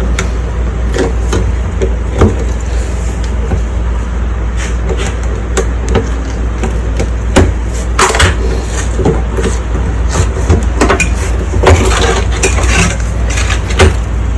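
Irregular clicks and knocks of hands and tools working at a washing machine's front panel as the rubber door seal is pulled away to reach the door lock, over a steady low hum.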